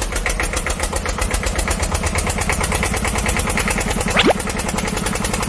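A small vehicle engine running with a rapid, even putter. About four seconds in, a quick falling whistle sweeps down over it.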